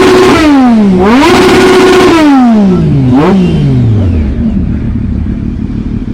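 Sport motorcycle engine revved hard: held at high revs twice with a dip between, then the revs fall away with one short blip, and the sound fades near the end.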